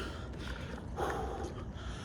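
A man's short, hard breath out through the nose about a second in, the breathing of someone mid-workout, over a low steady background hum.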